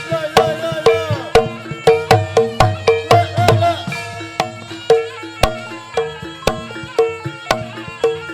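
Traditional East Javanese barongan accompaniment: a fast, steady beat of drum strokes and ringing tuned gong strikes repeating the same pitch. A bending melodic line over it in the first half drops out about four seconds in, leaving only the percussion.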